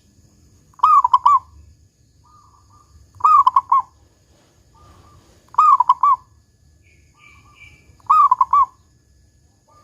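Zebra dove (perkutut) cooing: four phrases of a few quick notes each, ending in the deep 'kung', repeating about every two and a half seconds, with faint softer notes between them.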